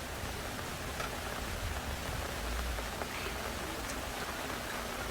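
Rain falling steadily: an even hiss of rain with a few faint drop ticks.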